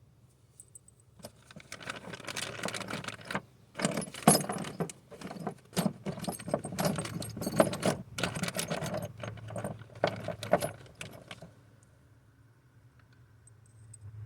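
Small loose metal parts and tools jangling and clinking in irregular, busy handling for about ten seconds, then stopping.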